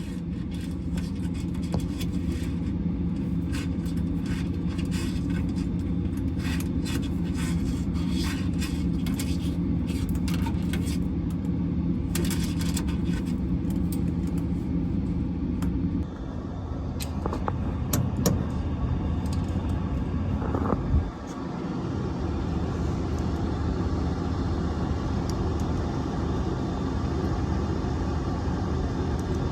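A steady engine drone with clicks and rattles over it. About sixteen seconds in, the drone changes to a different steady running sound, with a brief drop a few seconds later.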